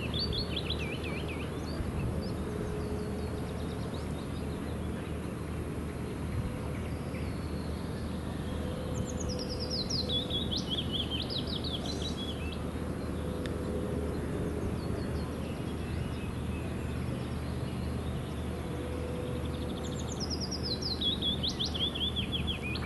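A songbird singing a short phrase of quick notes that falls in pitch, three times about ten seconds apart, over steady low background noise.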